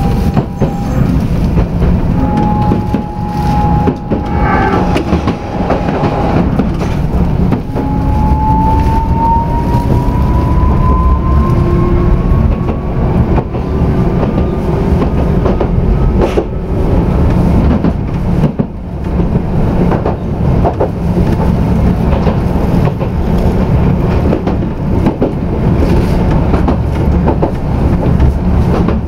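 Tokyu Setagaya Line railcar running on its rails with a steady low rumble and occasional wheel clicks. Its motor whine is level for the first few seconds, then rises slowly in pitch from about eight seconds in as the car picks up speed.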